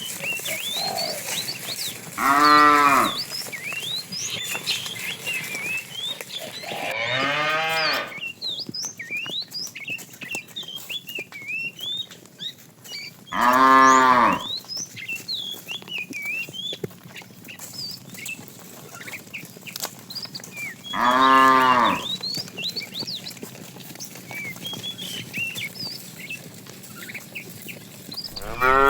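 Cows mooing: four long, low moos spaced several seconds apart, each lasting about a second, with another beginning at the very end.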